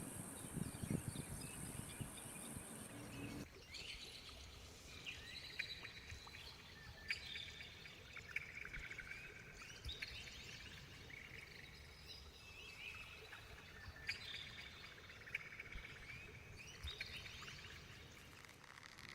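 Birds chirping and calling in short, repeated bursts, starting about three and a half seconds in. Before that, a low rumble and a steady high hiss cut off suddenly.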